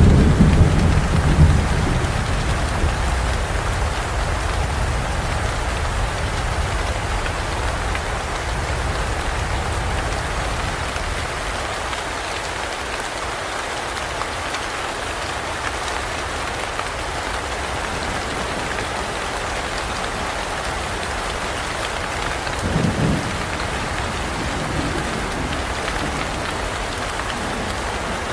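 Steady heavy rain falling in a forest. A low thunder rumble dies away over the first couple of seconds, and a brief low rumble comes about 23 seconds in.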